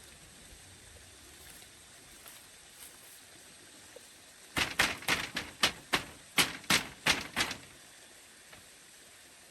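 About ten sharp knocks or taps in quick succession, roughly four a second, over a faint steady hiss.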